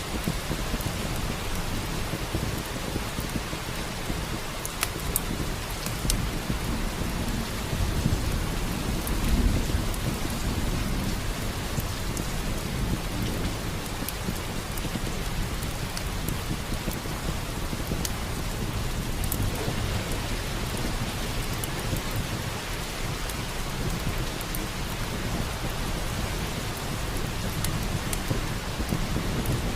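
Steady heavy rain, with a low rumble of thunder swelling about eight seconds in. Occasional sharp crackles of a log fire.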